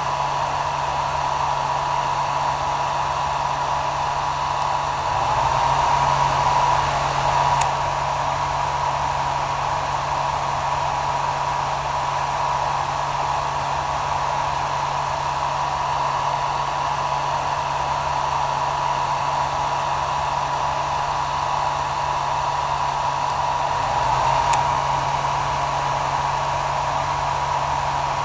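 Hair dryer running steadily: an even rush of air with a steady motor whine and a low hum. It swells slightly twice, about six seconds in and again near the end, each swell ending with a faint click.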